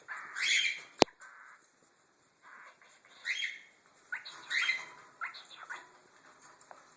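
Cockatiels chirping: several short separate calls, the loudest in the first second and more spread through the middle. A single sharp click about a second in.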